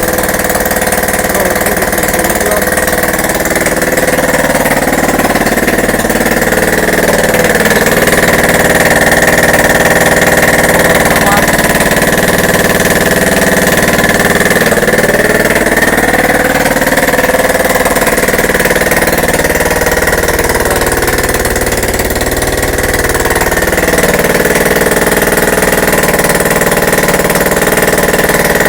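A new 125 cc engine mounted in a frame, running steadily near idle; its revs rise and fall slightly a few times.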